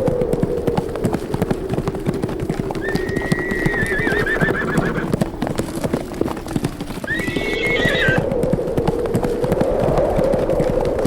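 Horses galloping, a rapid, continuous patter of hoofbeats, with a horse whinnying twice: one long call about three seconds in and a shorter one near eight seconds, each ending in a trembling quaver. A steady low drone runs underneath.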